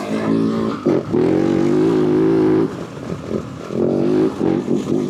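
Yamaha WR450F dirt bike's single-cylinder four-stroke engine running under throttle while riding. It holds a steady pitch for stretches of a second or so, with brief dips where the throttle eases, about a second in and again past halfway.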